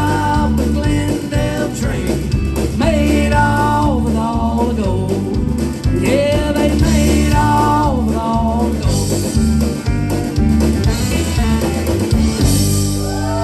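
Country-rock band playing an instrumental break: a lead guitar line with bent notes over bass and drums.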